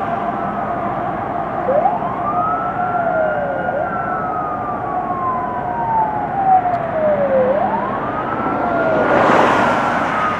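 Fire apparatus siren in wail mode: each cycle rises quickly and falls slowly, repeating about every three to four seconds. A burst of rushing noise comes near the end.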